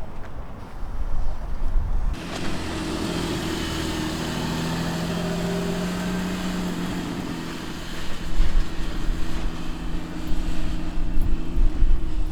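A motor vehicle's engine running with a steady droning hum that sets in about two seconds in and fades after about eight seconds. Low gusty rumbling comes before and after it.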